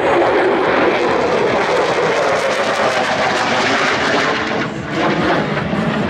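Aircraft engine noise from a display plane in flight, loud and steady, dipping briefly about five seconds in.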